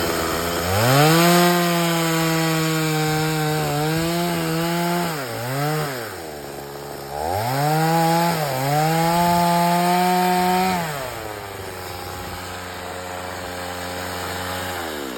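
Chainsaw revving up and cutting wood, its pitch sagging and recovering as the chain bites, dropping to idle about six seconds in. It revs up for a second cut, then settles back to a steady idle about eleven seconds in.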